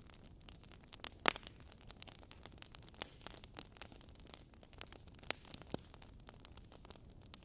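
Wood fire crackling: burning logs give off irregular sharp pops and snaps over a faint steady hiss. The loudest pop comes about a second in.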